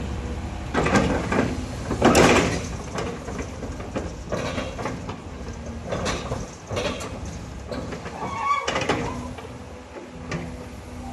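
Doosan DX380LC excavator running, its engine a steady low hum under repeated surges of hissing and clatter from the working machine. Near the end there is a brief metallic squeal.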